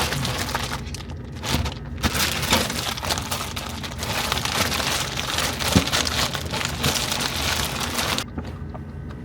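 Continuous crinkling and rustling with small knocks, as food containers and packaging in a refrigerator are rummaged through; it stops abruptly near the end.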